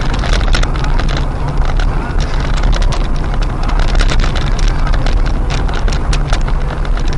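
Car driving, heard from inside the cabin: a steady low engine and road rumble, with many short knocks and rattles over it.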